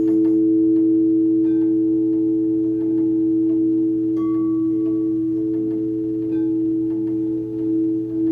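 Crystal singing bowls ringing in two steady, sustained tones that hold level throughout, under a low steady hum. Faint short high pings sound here and there over them.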